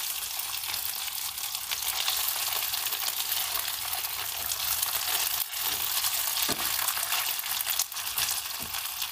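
Chicken wings sizzling and crackling steadily in oil in a nonstick frying pan as tongs turn them over sugared side down, so the sprinkled sugar can melt and caramelise.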